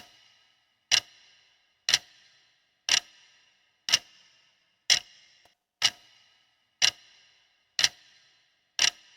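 Clock ticking once a second, ten sharp ticks, each with a brief metallic ring: a countdown timer running out the time to answer a quiz question.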